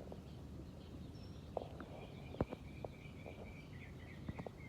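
Faint backyard ambience of birds chirping, with a steady high call and repeated notes starting about two seconds in. A few short, soft clicks, the loudest about halfway.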